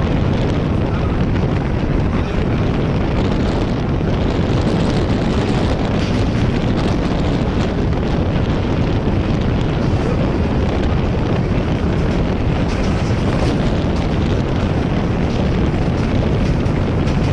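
Steady rushing noise of a moving Indian Railways train, wheel and track noise mixed with wind buffeting the microphone.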